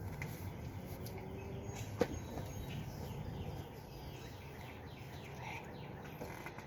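Faint outdoor backyard ambience with birds chirping lightly over a low steady background rumble, and one sharp tick about two seconds in.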